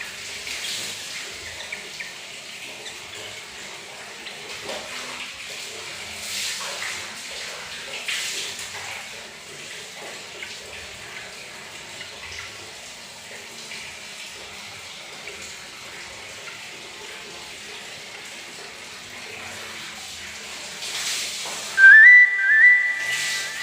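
Bathroom tap running steadily. Near the end come two short whistled notes, each rising and then held, the loudest sound.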